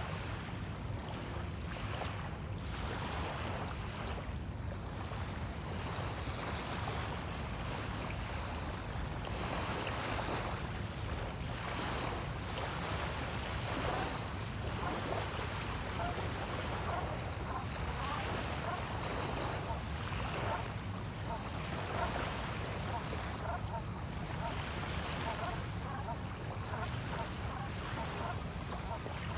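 Small waves washing onto a sandy bay shore, swelling and easing every few seconds, with a steady low rumble of wind on the microphone.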